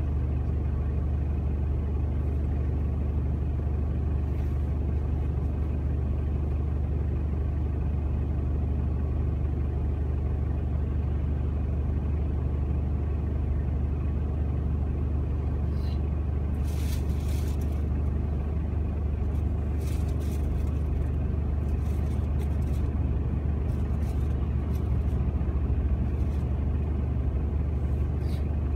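Car engine idling while stopped, heard from inside the cabin as a steady low drone, with a few faint clicks about halfway through.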